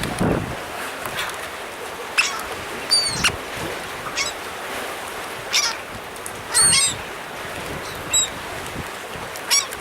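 Birds calling: short, sharp, high calls scattered through, with a quick cluster of them about seven seconds in, over a steady wash of wind and sea.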